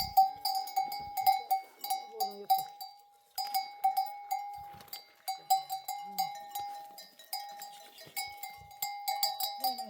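Bells hung on a flock of sheep clanking irregularly as the animals move, several strikes a second, with a short pause about three seconds in.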